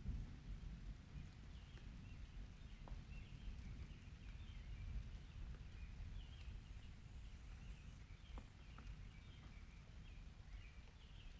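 Birds chirping faintly in short scattered calls over a steady low rumble of rain, with a few soft clicks.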